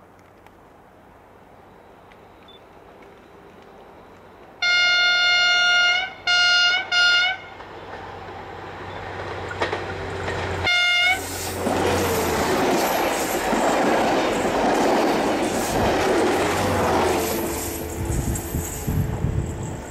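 An OSE passenger train sounds its horn on a single pitch, one long blast about five seconds in followed by two short ones, and gives another short blast about eleven seconds in. It then runs past with loud wheel and rail noise, which turns to a lower rumble and rattling clatter near the end.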